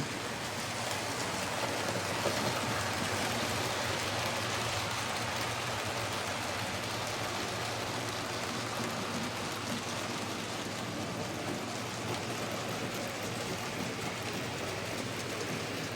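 Model trains running on the layout: a steady whirring rumble of small electric motors and wheels on track.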